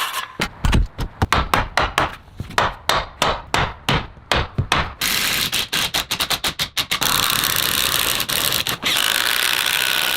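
Rapid hammer blows on wood for about five seconds, roughly four strikes a second, then the steady noise of a running power tool.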